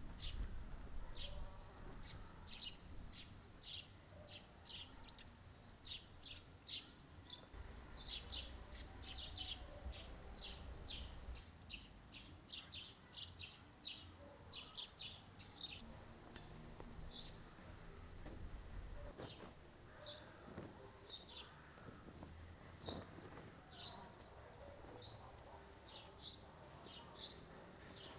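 Small birds chirping: a rapid run of short, high chirps that thins out to scattered ones about two-thirds of the way through.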